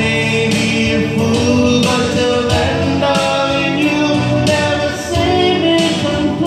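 Pop ballad music with a steady drum beat and sustained, wordless-sounding sung vocals: voices holding long notes and sliding between them, with choir-like backing harmonies.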